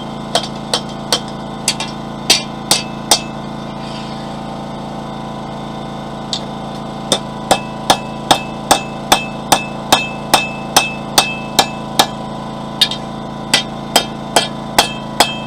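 Blacksmith's hammer striking a hot steel bar, about two to three blows a second in three runs with pauses of a few seconds between them, some blows ringing briefly. A generator hums steadily underneath.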